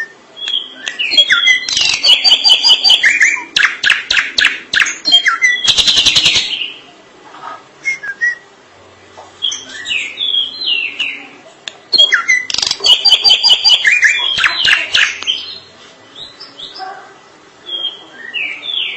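Drongo (srigunting) singing a long, varied song of rapid whistled notes and chattering phrases, with harsh buzzy bursts. It sings two loud bouts, with scattered quieter notes between them.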